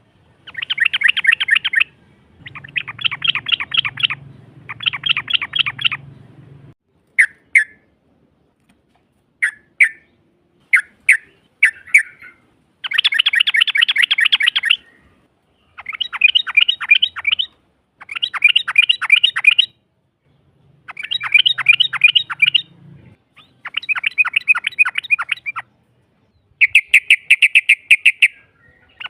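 Yellow-vented bulbul (trucukan) giving long, rapid chattering trills in bursts of about two seconds with short gaps between them, with a few single short notes in the middle.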